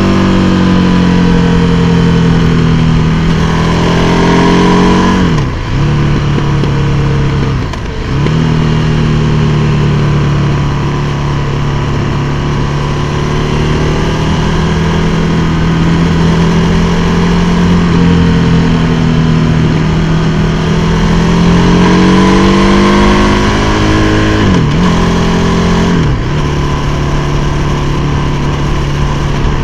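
The 1301 cc V-twin of a KTM 1290 Super Duke R running under way, recorded on board over a steady rush of noise. Its pitch sinks over the first few seconds, climbs again later on, and four times drops sharply for a moment before picking straight back up.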